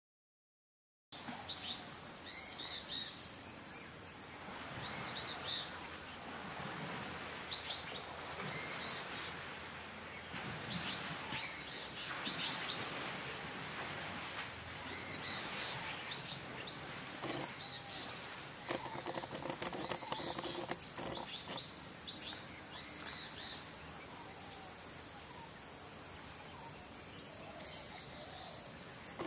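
Wild birds chirping and calling over and over against a steady outdoor hiss, starting about a second in after a moment of silence.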